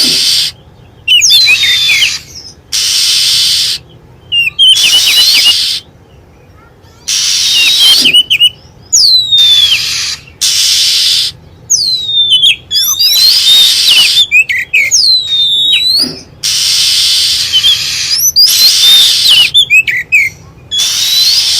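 Oriental magpie-robin song played as a lure recording: clear whistles that slide down in pitch, alternating again and again with harsh raspy churrs about a second long.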